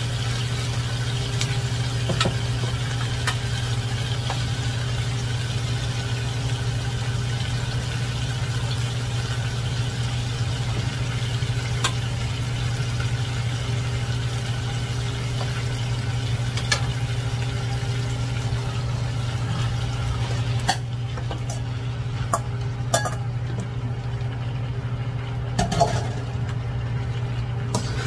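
Marinated chicken pieces frying in a pan of sautéed onion and garlic with a steady sizzle that thins after about twenty seconds. Scattered sharp clicks of a utensil and chicken pieces against the pan come through, over a steady low hum.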